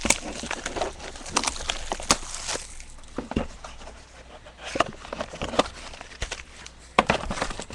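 Trading-card packaging being handled: scattered clicks, taps and light rustling of cardboard and wrapper as a box of baseball cards is opened.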